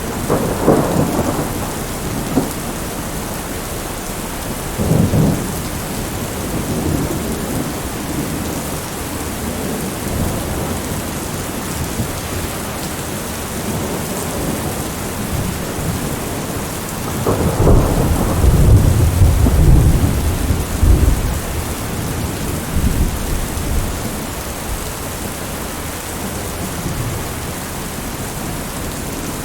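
Heavy rain falling steadily against a window, with thunder rumbling: a short roll about a second in, another around five seconds, and a longer, louder rumble in the second half.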